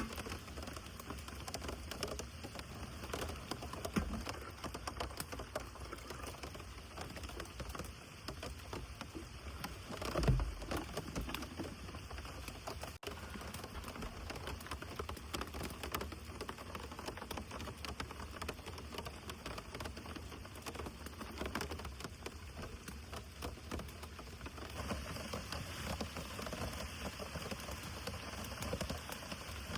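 Heavy rain falling steadily, a dense patter of drops on a surface. There is one louder dull thump about ten seconds in.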